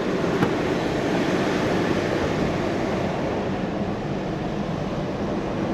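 Steady road and engine noise of a car driving, heard from inside the cabin, with a faint low hum and a small click about half a second in.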